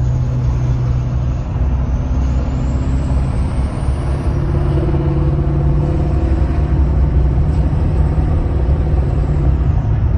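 2006 LBZ Duramax 6.6-litre V8 turbodiesel pulling steadily through a muffler-less 5-inch exhaust: a deep, loud drone. Over it, the 66 mm turbo's whistle rises in pitch about two seconds in and then holds high.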